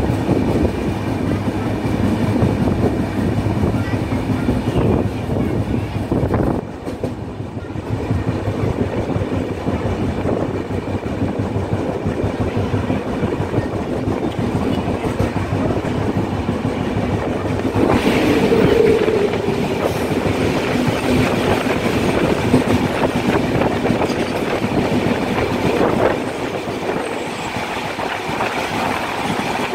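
Running noise of a passenger train's coach at full speed, heard through an open window: a steady rumble with wheels clattering over the rail joints. About 18 seconds in, a goods train on the adjacent track starts rushing past the other way, and the sound turns louder and brighter with the clatter of the passing wagons.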